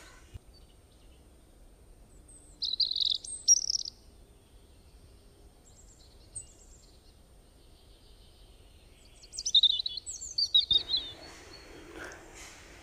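Small birds chirping, in two short bouts of quick high chirps, about three seconds in and again from about nine and a half seconds. Near the end a soft hiss of noise comes in.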